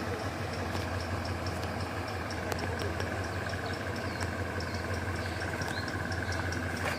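An engine idling steadily, with a steady high whine and fast, regular high ticking, about four to five a second, over it.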